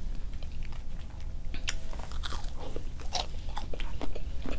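Close-miked chewing and biting of crunchy McDonald's food, with irregular crisp crunches.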